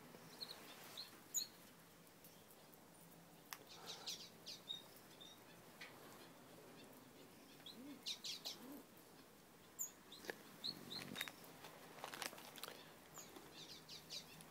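Faint bird chirps: short high notes scattered through, with a few brief clusters of soft ticks in between.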